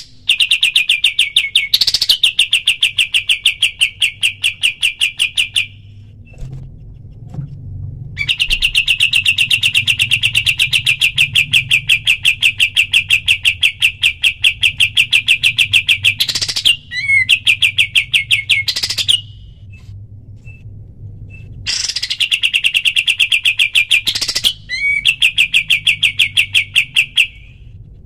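Kapas tembak songbird singing its rapid-fire 'tembakan' trill: long runs of fast, evenly repeated sharp notes, broken by pauses of a second or two, with several runs in all.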